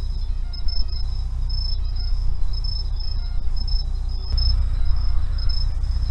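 Insects, crickets by their sound, chirping in a high-pitched pulsing trill that keeps breaking and resuming, over a steady low rumble that grows slightly louder about four seconds in.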